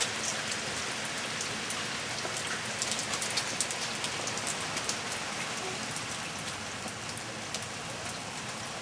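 Steady rain falling, an even hiss with scattered sharp ticks of individual drops landing close by.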